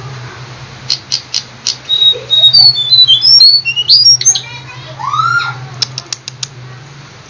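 A jongkangan (cingcoang coklat) singing: a burst of sharp chips, then a quick run of high whistled slurs and a lower arched note, ending in more chips. A steady low hum runs underneath.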